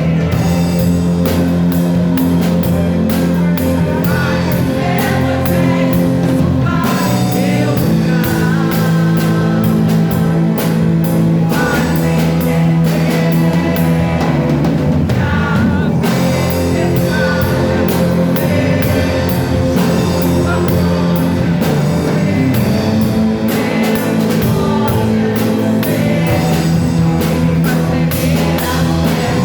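A praise band playing a worship song with drum kit, guitar and singing.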